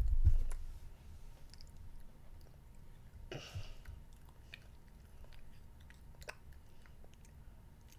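A child chewing chewy candy, with small wet mouth clicks and a brief louder mouth sound about three seconds in as he sucks his fingers. A few low thumps come at the very start.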